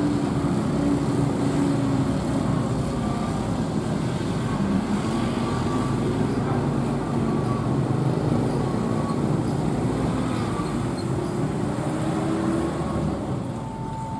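Steady engine rumble with a low hum that drifts slightly in pitch.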